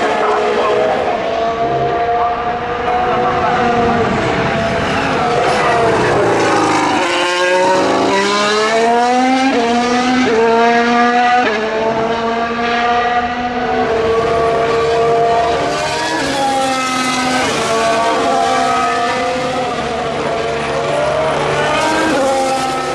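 2019 Formula 1 cars' 1.6-litre turbocharged V6 engines at full throttle, shifting up through the gears. The pitch climbs in quick steps, each broken by a short drop at the upshift, and the climbs start over several times.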